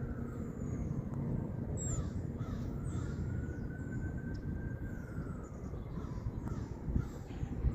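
Birds calling again and again over a steady low rumble, while a faint tone slowly rises and falls like a distant siren.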